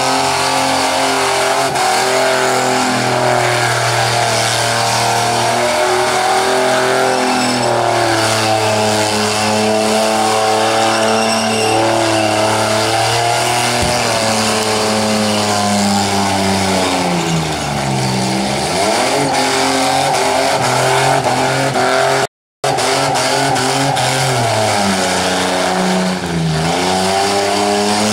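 Mazda station wagon's engine held at steady revs through a burnout, its rear wheels spinning. About two-thirds of the way through, the revs dip and climb back, and again near the end, with a brief drop-out of the sound in between.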